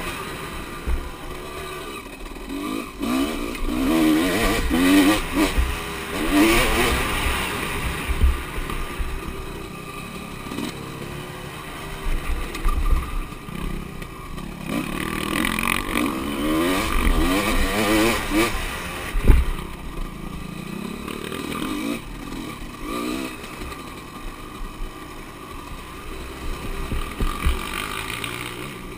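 Motocross bikes racing on a track, engines revving up and down in waves as riders pass and come off the throttle, with a sharp thump about 19 seconds in.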